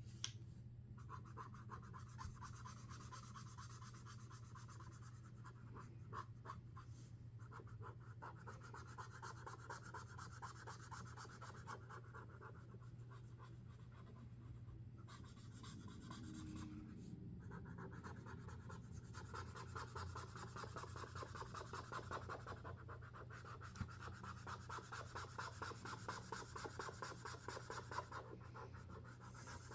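Sharpie Creative Marker tips scratching across the drawing surface in runs of quick, rapid strokes, with a few short pauses, over a faint steady low hum.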